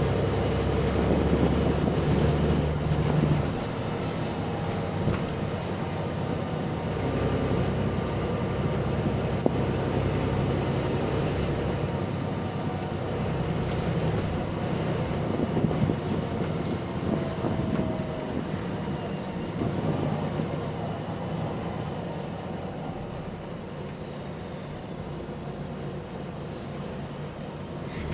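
Volvo double-decker bus running under way, heard from on board, its engine note carrying an exhaust leak. A faint high whine rises and falls in pitch, and the running gets quieter about three and a half seconds in and again in the last few seconds.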